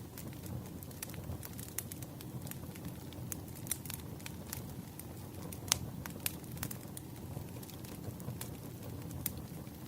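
Wood fire crackling: irregular sharp pops and snaps over a low, steady rush of burning logs, with one louder pop a little before six seconds in.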